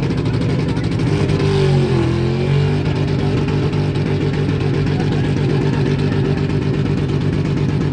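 A vehicle engine running loudly and steadily, its pitch dropping and climbing back up between about one and three seconds in.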